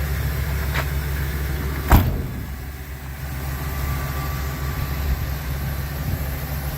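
2019 Ford E-450 box truck engine idling steadily with a low rumble. A light click about a second in, then a sharp knock about two seconds in.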